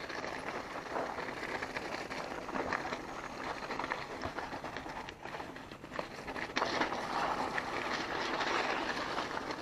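Mountain bike being ridden over a dirt trail: tyre noise with a constant clatter of small rattles and knocks from the bike, getting louder about two-thirds of the way through.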